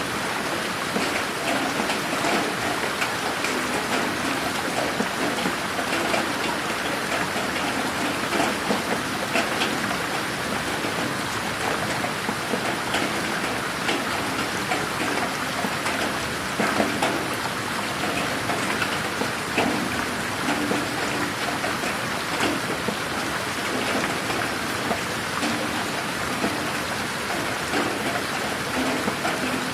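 Steady rain falling on a garden: a dense, even patter of many small drops, with no thunder.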